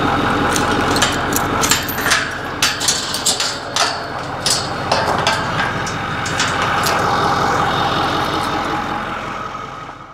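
Loaded golf cart running with a steady engine hum, with many sharp rattles and knocks from about one to seven seconds in. The sound fades near the end.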